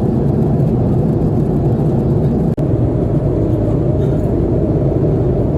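Steady engine and airflow noise inside an Airbus A330-300 cabin, a loud, even rumble that breaks off for an instant about two and a half seconds in.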